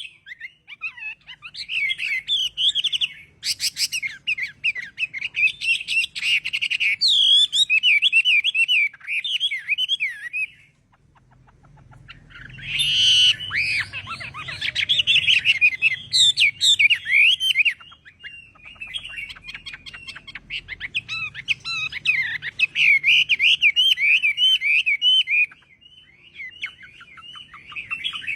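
Chinese hwamei (melodious laughingthrush) singing a long, varied song of loud whistled phrases mixed with fast repeated trills. It breaks off for about a second partway through, then resumes.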